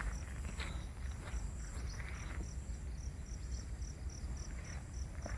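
An insect chirping in a steady high-pitched pulse, about four chirps a second, over a low rumble.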